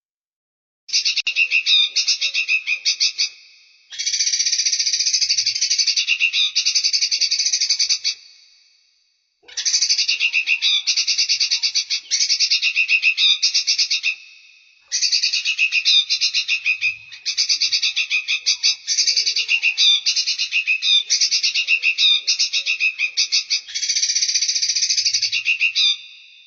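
Songbird song in fast, rapidly pulsed high trills, delivered in phrases of a few seconds each with short pauses between them, as used in a masteran recording of bulbul and flycatcher-shrike song.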